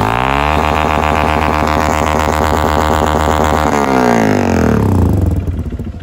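Motorcycle engine revved up, held at high revs for about three seconds, then let back down toward idle. The engine is worn and knocks; the mechanic thinks the knock may be piston slap from a worn cylinder kit rather than the connecting rod.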